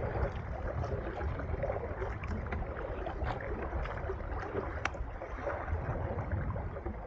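Small waves splashing and lapping, with many small sharp splashes, under a steady low rumble of wind on the microphone.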